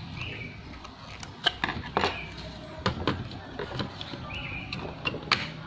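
Sharp clicks and knocks of hard laptop parts being handled while an HDD caddy is fitted in place of the optical drive, a few separate knocks spread over several seconds.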